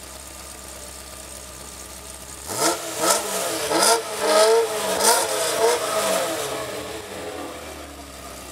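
Supercar engine accelerating hard through several quick upshifts: the note climbs and drops again four or five times, with sharp cracks among the rising notes. It then fades away. For the first two and a half seconds there is only a low steady hum.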